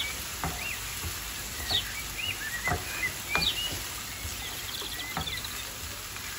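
Sliced onions frying in oil in a shallow pan as a wooden spatula stirs them: a steady sizzle with stirring scrapes. Short high chirps recur over it.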